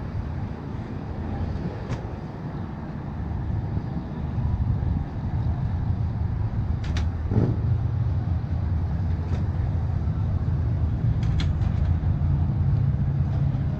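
Outboard motor running at low speed, a steady low rumble that grows louder about four seconds in, with a few brief clicks.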